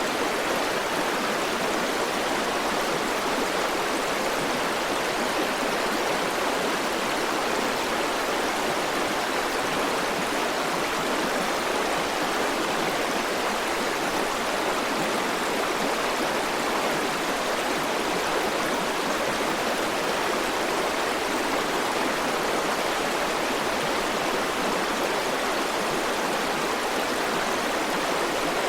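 River water flowing over rocks: a steady, even rush of running water with no changes.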